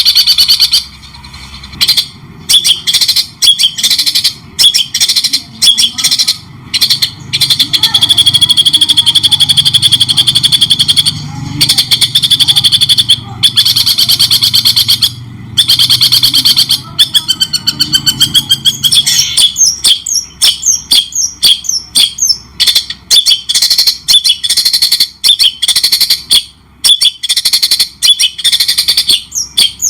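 Loud, continuous songbird song: long, rich runs of whistles and chatter, switching about twenty seconds in to fast, choppy phrases of quick rising notes.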